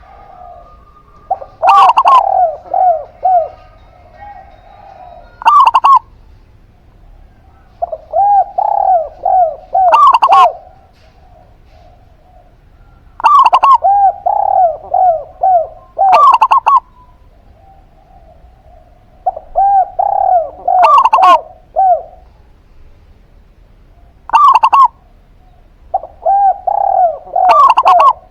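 Zebra dove (perkutut) and spotted dove (derkuku) cooing in turn. Quick runs of falling coo notes come every few seconds, with loud, sharp-edged notes cutting through each phrase.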